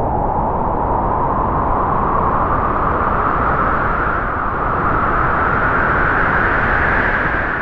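Strong wind howling through trees: a steady rush with a whistling howl that rises and falls in pitch, climbing over the first few seconds, dipping about four seconds in, then rising again.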